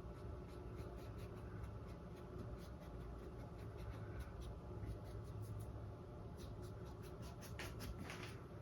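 Faint, scratchy strokes and dabs of a paintbrush laying thick acrylic paint onto a stretched canvas, over a low steady hum.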